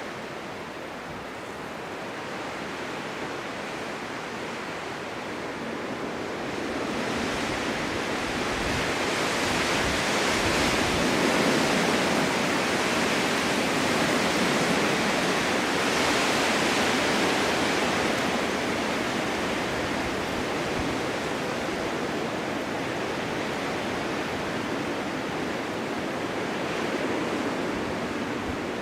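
Snowstorm wind blowing steadily, a rushing noise that swells into a stronger gust several seconds in and slowly eases off again.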